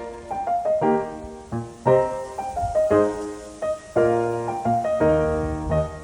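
Background piano music: struck notes and chords in a steady, gentle rhythm.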